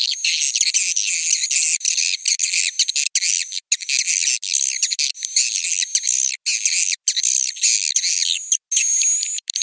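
Swiftlet roosting-call lure recording: dense, high-pitched twittering and chattering chirps, broken every second or so by brief cut-off gaps in the edited loop. A thin high whistling tone comes through near the end.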